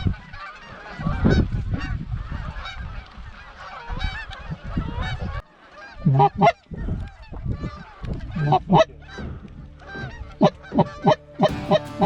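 Canada geese honking: a dense chorus of many overlapping calls from an incoming flock, then from about halfway through a run of loud, separate honks close by.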